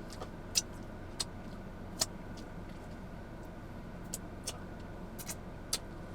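Steady low hum of a car cabin, with several small sharp clicks and taps scattered through it.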